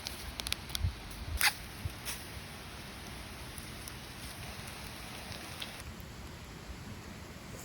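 Steady rushing of a stream, with a few sharp clicks and one louder knock in the first two seconds.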